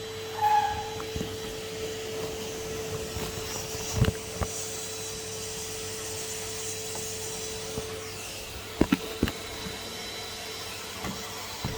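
Henry HVR200 620 W vacuum cleaner running with a steady hum, its nozzle knocking against something about four seconds in and twice more near nine seconds.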